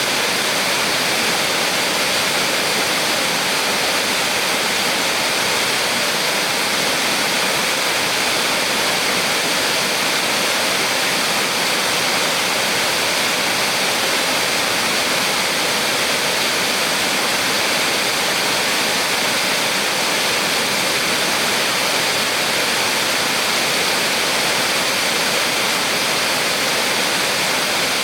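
Small waterfall on a mountain stream: water falling and rushing as a steady, unbroken hiss.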